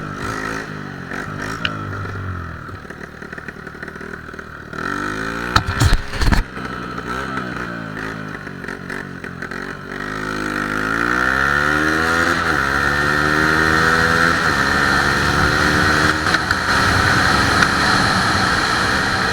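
Motorcycle engine revving hard and climbing through the gears, its pitch rising and then dropping at each shift. There are a few sharp knocks about six seconds in.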